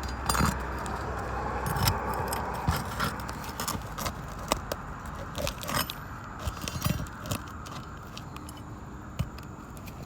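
Roof snake working under asphalt shingles to pull out roofing nails: irregular metallic clinks and scrapes, with a steady background hiss.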